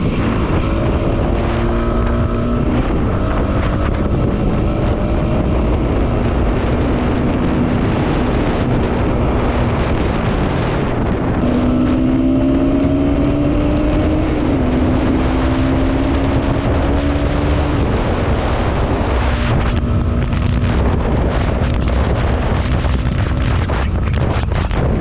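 Wind buffeting the microphone of a camera on a moving vehicle, over the vehicle's engine, whose note slowly rises and shifts in pitch several times.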